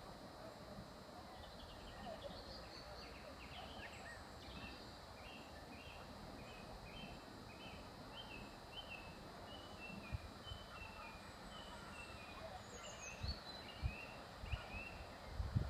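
A small bird singing a run of short repeated chirps, about two a second, over faint steady background noise. A few low thumps come near the end.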